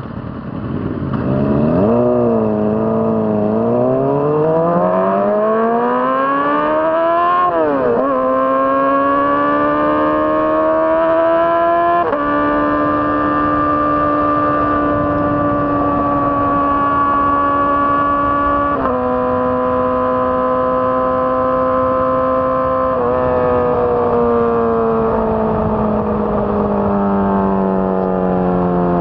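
2006 Honda CBR600RR's inline-four engine accelerating hard, its note climbing steeply and dropping back at upshifts about eight and twelve seconds in. It then runs at a steady speed with another upshift near the middle, and its pitch falls gradually toward the end as the bike slows.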